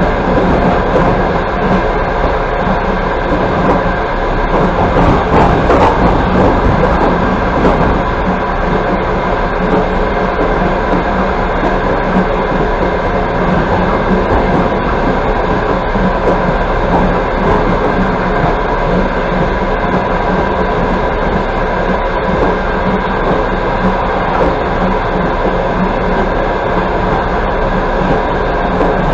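Running noise of a moving express passenger train, heard from inside the passenger carriage: a steady rumble of wheels on the rails that swells slightly about five seconds in.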